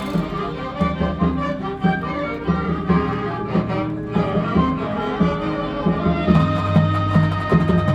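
Marching band playing its field-show music: held chords over a strong low bass, growing fuller about six and a half seconds in.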